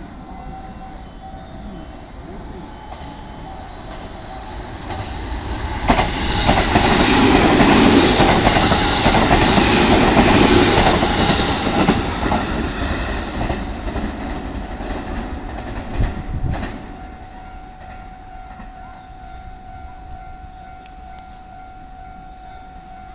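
A 281 series Haruka limited express train passing through the station at speed. The rush of wheels on rail builds over a few seconds, is loud for about six seconds with sharp knocks at the start and near the end, then fades away. A steady faint hum runs underneath.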